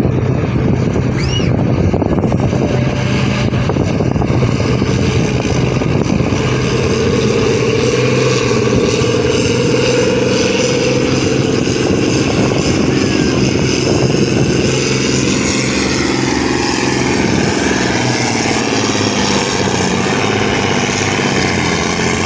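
Farm tractor's diesel engine running hard and steady under heavy load as it drags a weighted pulling sled.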